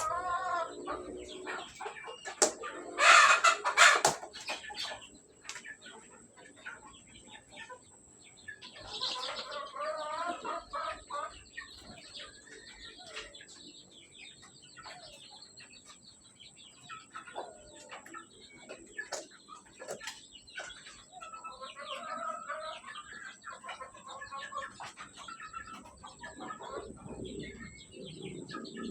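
Free-range village chickens clucking and calling at feeding time, with scattered short clicks and a loud brief flurry about three seconds in.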